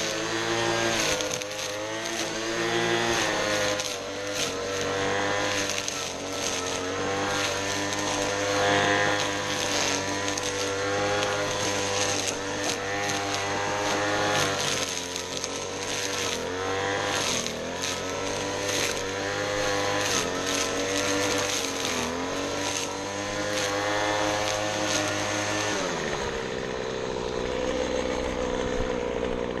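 Lawn mower engine running hard, its pitch sagging and recovering again and again as it labours in the grass. About four seconds before the end it gives way to the steady sound of a different small engine.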